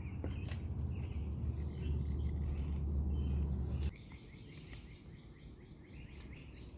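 Birds chirping in the background over a low rumble that cuts off suddenly about four seconds in, with a few light clicks.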